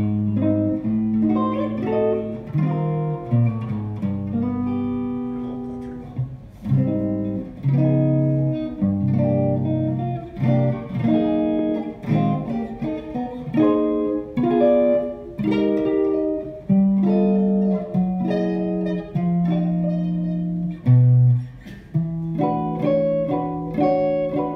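1956 Fender Telecaster electric guitar played solo: a continuous run of picked melodic phrases and chords, with low bass notes held beneath them.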